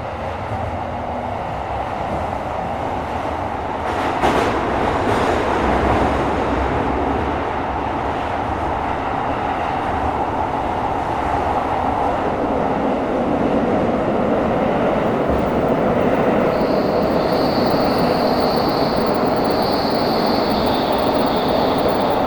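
Tokyo Metro 17000 series subway train running, heard from inside the car: steady wheel-on-rail noise with a sharp clack about four seconds in. High steady whining tones join in about two-thirds of the way through.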